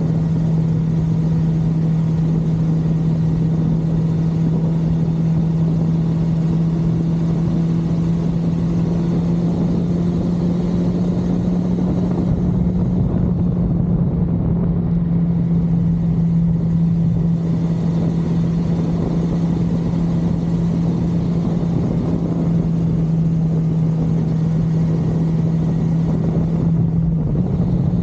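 1982 Suzuki GS550L's air-cooled inline-four engine running steadily at cruising speed, a constant drone over a rushing noise.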